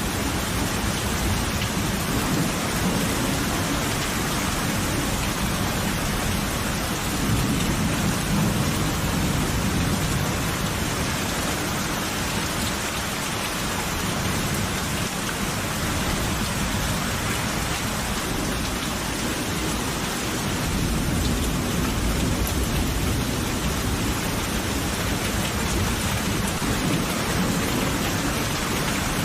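Steady heavy rain falling, with low rolling thunder rumbling underneath that swells a few seconds in and again past the middle.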